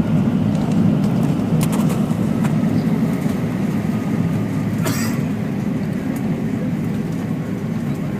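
Steady low rumble of an Airbus A319 heard inside the passenger cabin, with a single brief click about five seconds in.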